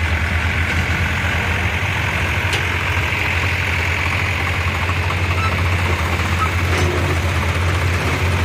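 Tractor engine running steadily at idle, with a constant low hum.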